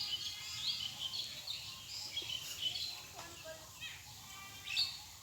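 Birds chirping in short repeated high calls in the background, with a brief noisy burst near the end.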